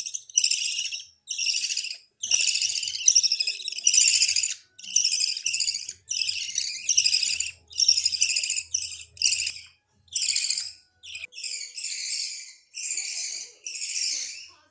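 Budgerigar chicks giving hungry begging calls: high, buzzy calls each under a second long, repeated about once a second without a break.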